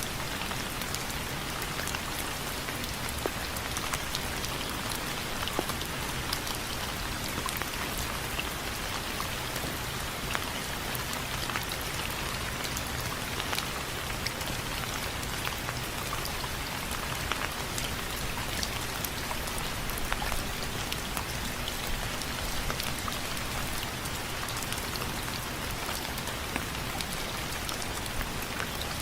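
Steady rain with many individual drops ticking against a window frame, a constant hiss dotted with sharp little taps.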